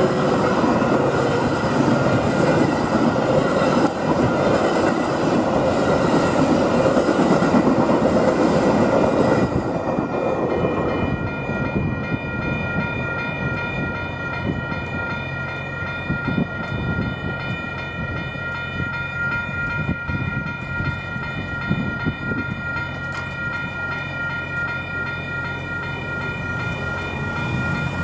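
Metra bilevel gallery commuter cars rushing past at speed, their wheels running over the rails, for about the first ten seconds. The train then clears and the grade crossing's warning bell keeps ringing steadily.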